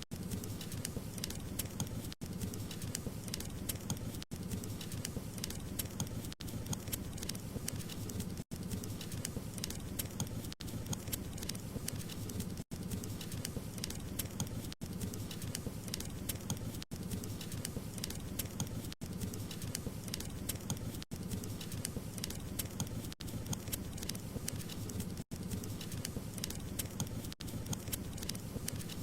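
Wood fire crackling: a steady low rush dense with small sharp pops, broken by a brief dropout about every two seconds.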